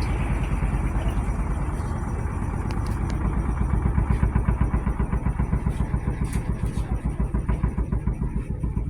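The washer of a GE Spacemaker laundry center in its final spin: the drum spins at speed with a steady low hum that pulses several times a second.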